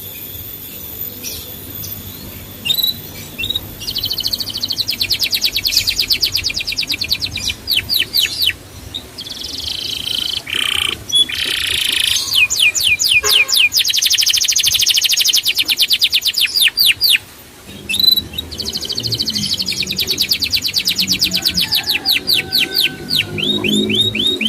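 Small songbird singing long, rapid trills of repeated high sweeping notes, in three bouts with short breaks between them.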